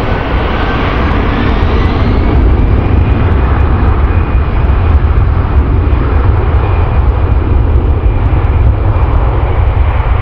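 Jet airliner's engines running loud: a deep rumble with a whine that rises in pitch over the first couple of seconds, then holds steady.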